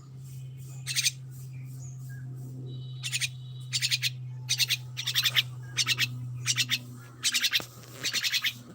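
A bird calling in a string of short, rapid, high chirps or trills, about a dozen of them, coming more often in the second half. A steady low hum runs underneath.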